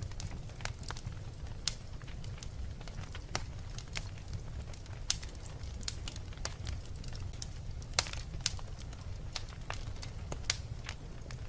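Wood fire burning in a fireplace, crackling with irregular sharp pops over a steady low rumble. The loudest pops come about five, eight and ten seconds in.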